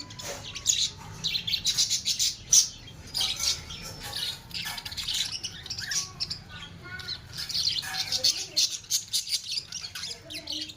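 Many small parrots chirping rapidly and continuously, with occasional harsher squawks.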